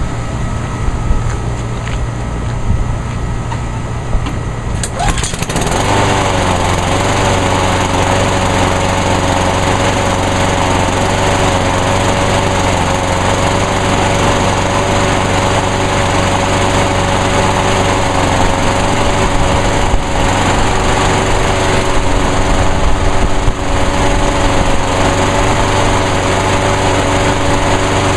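Honda walk-behind lawnmower's four-stroke engine starts about five seconds in and then runs at a steady speed. It is being given a short run right after an oil change to circulate the fresh SAE 30 oil.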